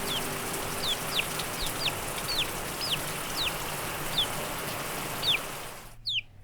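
A small bird calling over and over: short, high chirps that each fall quickly in pitch, about two a second, over a steady background hiss. The hiss cuts out about six seconds in, just after a last chirp.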